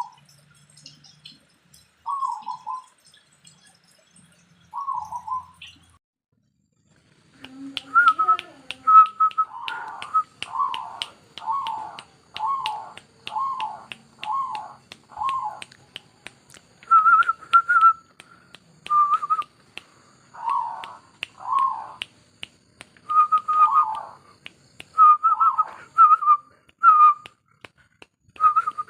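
Zebra dove (perkutut) cooing: three separate short calls, then from about eight seconds in a busy run of repeated coos, some higher, with rapid sharp clicks underneath.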